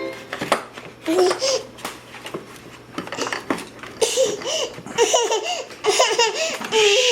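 Toddler laughing and babbling, a string of short rising-and-falling squeals that grow louder and come closer together from about halfway through.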